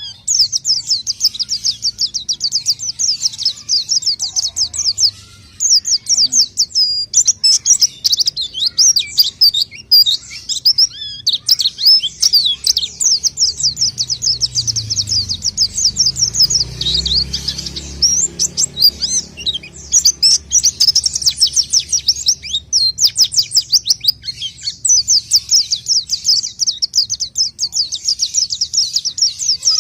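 Pleci (white-eye) singing long runs of rapid, high-pitched chattering notes, broken by brief pauses.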